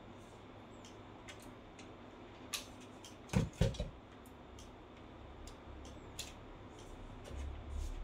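Scattered light clicks and taps from handling small parts and tools, with a short cluster of louder knocks about three and a half seconds in and a low rumble near the end.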